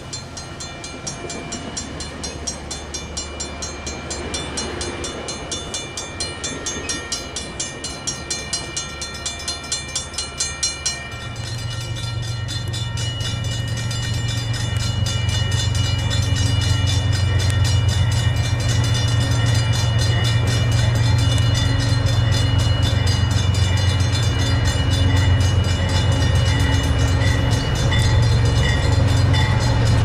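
Passing commuter train with a rhythmic wheel clatter for the first ten seconds or so, over a grade-crossing bell ringing steadily throughout. From about eleven seconds in, the low hum of an approaching Amtrak diesel locomotive comes in and grows louder, staying loud to the end.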